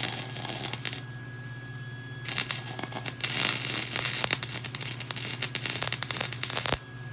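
Electric arc welding crackling in two runs, a short one at the start and a longer one of about four and a half seconds that cuts off suddenly, over a steady low hum. The weld is filling a hole burned through thin minibike frame tubing.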